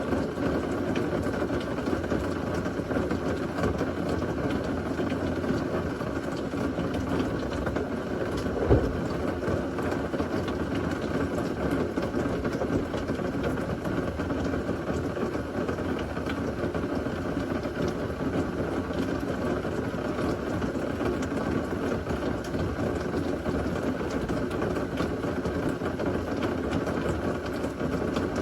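Heavy thunderstorm rain falling in a steady rush, with one sharp knock about nine seconds in.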